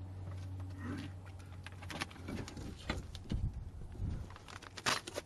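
Handling noises: scattered clicks and low knocks, the sharpest near the end, over a steady low hum that stops about halfway through.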